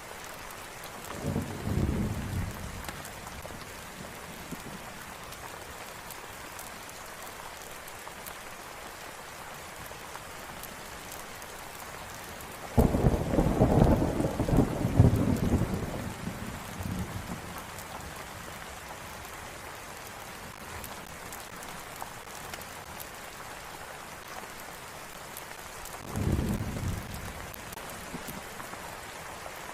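Steady rain falling, with three rolls of thunder: a short one about two seconds in, a louder, longer one that breaks suddenly near the middle and rumbles for a few seconds, and a short one near the end.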